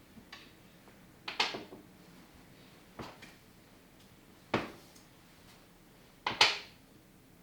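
A run of separate sharp knocks and clacks from household things being handled, such as a drawer, a cupboard door or objects set down. There are about five, and the loudest are doubled knocks a second in and near the end.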